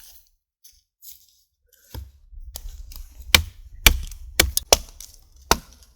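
Axe chopping wood: a string of sharp, separate blows starting about two seconds in, over a low rumble.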